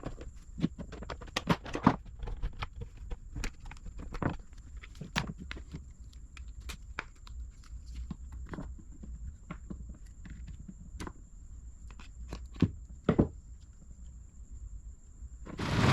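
Scattered clicks and knocks of hands handling tools and small chainsaw starter parts, with a few louder knocks and a brief loud rustle near the end.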